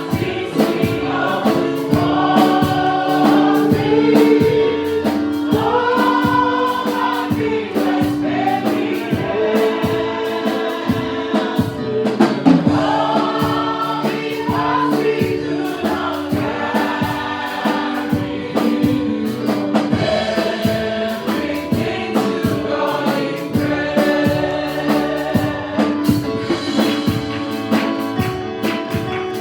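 Gospel praise-and-worship song: a group of voices singing together over a band, with held instrumental notes and a steady drum beat.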